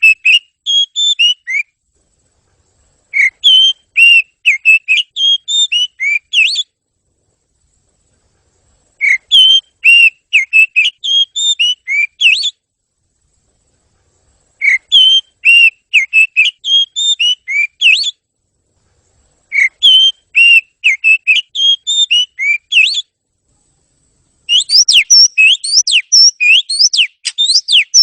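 Oriental magpie-robin (kacer) singing clear whistled phrases of quick notes, each phrase a few seconds long with short pauses between. Near the end it breaks into a faster, unbroken run of rising notes.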